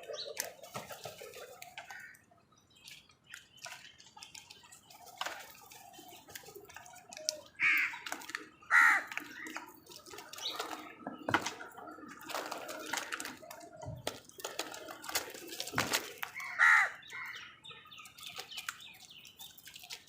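Crows cawing in short harsh calls. The loudest come about eight seconds in, again a second later, and near the end, among scattered sharp clicks and knocks.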